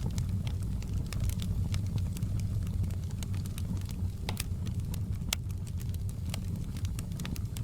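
Wood fire crackling in a fireplace: a steady low rumble of the burning fire with irregular sharp pops and snaps scattered through it.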